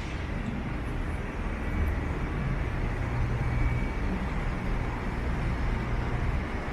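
Downtown street traffic: vehicles running and passing, a continuous low rumble.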